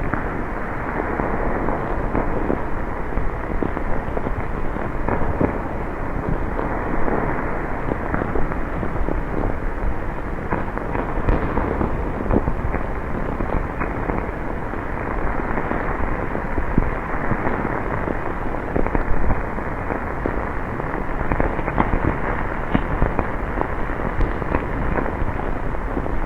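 Steady heavy rain: a dense, even hiss full of many small, sharp drop impacts, with no clear swell or break.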